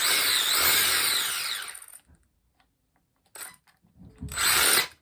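Brushless electric motor and drivetrain of a 1/14 RC truggy whining as the throttle is blipped, the pitch rising and falling, until it stops about two seconds in. Near the end come two short bursts of the motor, a brief one and then a longer one.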